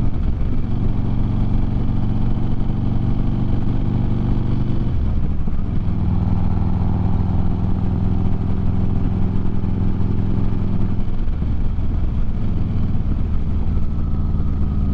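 Harley-Davidson motorcycle's V-twin engine running under way. The engine note breaks and shifts in pitch twice, about five seconds in and again about eleven seconds in.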